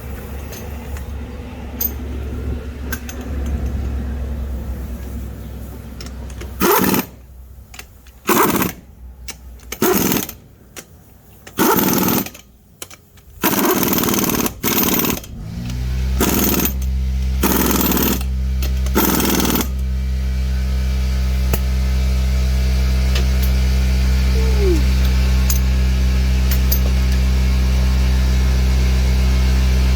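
Impact wrench hammering in about nine short bursts, running the lug nuts onto a newly mounted wheel. About halfway through, a steady low machine hum starts and keeps running.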